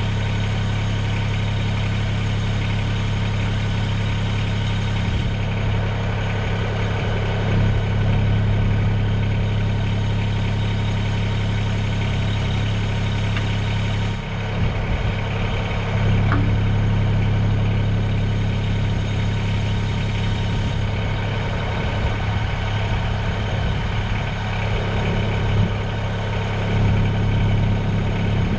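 Mahindra eMax 20S HST compact tractor's diesel engine running steadily, with small rises in loudness a few times.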